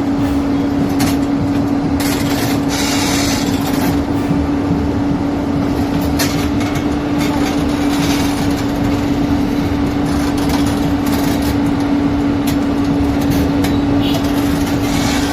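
Heavy machinery engine running at steady revs: a constant low hum over a rough rumbling noise, with a few short knocks now and then.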